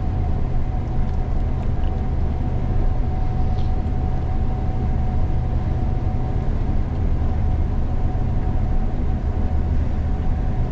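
Gleaner combine harvester running steadily while harvesting soybeans: a constant low rumble with a thin, steady whine above it.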